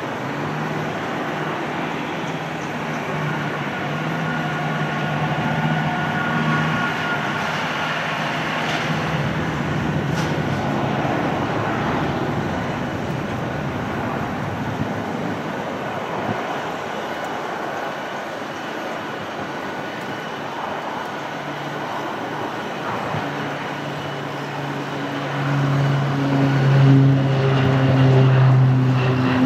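Beech B200 Super King Air's twin Pratt & Whitney PT6A turboprops running with a steady propeller drone, growing louder about 25 seconds in.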